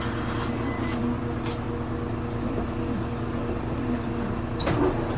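Hino Rainbow HR city bus heard from inside the cabin, its diesel engine running steadily with an even low drone. There is a sharp click near the end.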